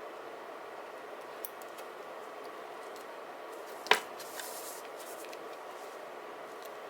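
Paper crafting sounds at a desk: a few faint ticks, then one sharp click about four seconds in, followed by a brief papery rustle, over a steady background hiss.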